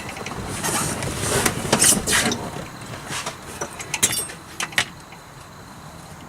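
Handling noise: rustling and shuffling with a few sharp clicks and taps, as the camera is moved and set up again; it settles to a quiet background about five seconds in.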